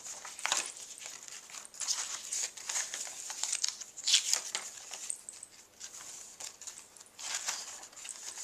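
Paper rustling and crinkling in irregular bursts as sheets of eco-dyed journal paper are handled.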